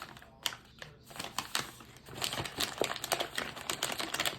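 Paper microwave popcorn bag crinkling and rustling as it is handled, in a run of irregular small crackles.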